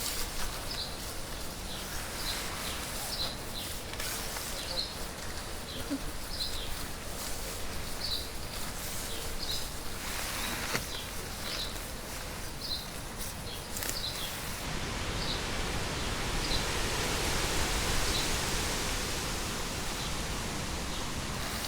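A bird calling over and over, one short high chirp roughly every second, over a steady outdoor hiss that grows louder in the second half.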